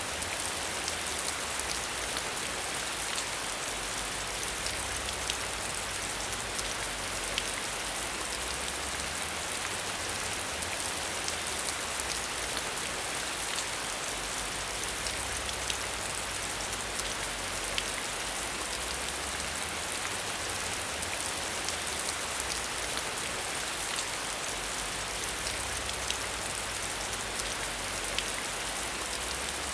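Steady rain falling, a continuous hiss with many single drops ticking sharply through it, over a faint low rumble.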